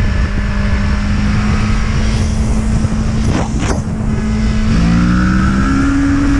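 Motorcycle engine running under heavy wind rush on a riding camera, a steady engine note that climbs in pitch over the last couple of seconds as the bike accelerates.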